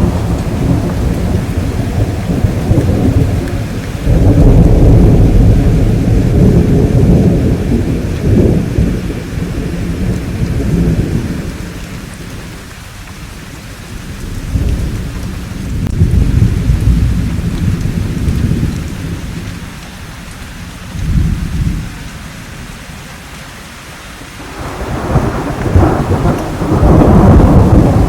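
Thunderstorm: steady rain with rolling thunder that swells and fades in several long deep rumbles, the loudest about four seconds in and again near the end.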